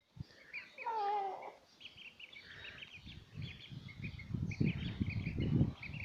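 Many small birds chirping rapidly and continuously, with one short wavering call about a second in. Low knocks and rumbling join from about three seconds in.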